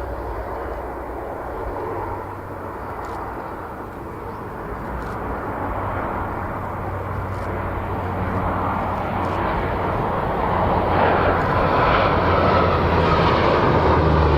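Lockheed P-3C Orion's four Allison T56 turboprop engines droning in flight with a steady low propeller hum, growing louder over the second half as the aircraft approaches.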